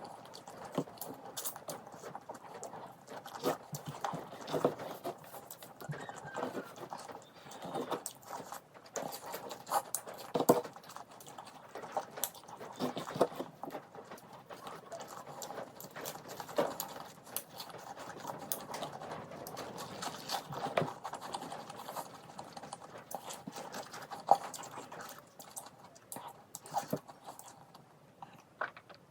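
Close-miked eating: wet chewing and lip smacking with irregular small clicks and smacks, a person eating rice and curry.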